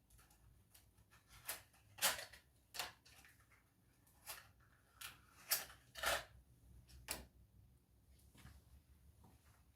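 Scattered sharp clicks and light metallic knocks of hand tools at work on a car engine's spark plugs, about eight of them at uneven intervals through the middle.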